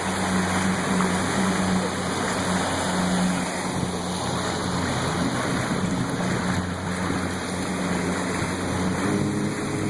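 Motorboat engine running steadily under a constant rush of water and spray from the hull and wake; the engine note rises near the end.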